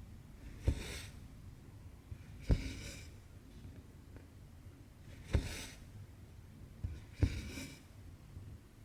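Needle pushing through 18-count Aida cloth with a sharp tap, each time followed by a short rasp of cotton embroidery thread being drawn through the fabric. Four stitches, about two seconds apart.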